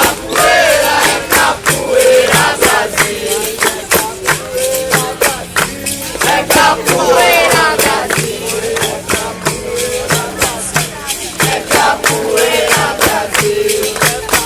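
Capoeira roda music: a group singing call-and-response over the berimbau and percussion, with many sharp beats struck in a steady rhythm.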